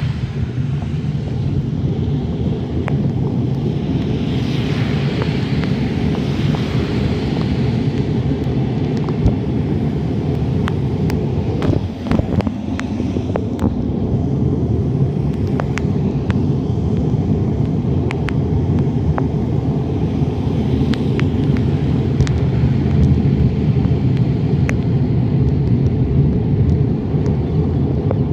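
Steady low rumble of wind and road vibration picked up by a phone mounted on the handlebars of a moving bicycle, with scattered sharp ticks.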